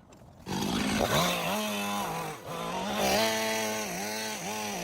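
Chainsaw engine running at high revs, its pitch dipping briefly three or four times.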